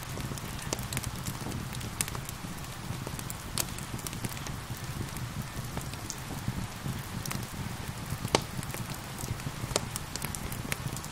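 Wood fire crackling with scattered sharp pops, the loudest about eight seconds in, over a steady hiss of gentle rain and a low, even rumble.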